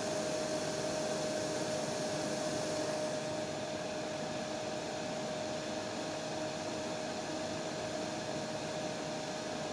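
Hair dryer running steadily: a rush of air with a steady motor whine. About three seconds in, the high hiss drops slightly and it gets a little quieter, then runs on unchanged.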